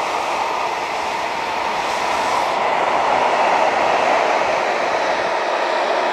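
Freight train of tank wagons rolling past on the main line: steady, even noise of wheels running on the rails.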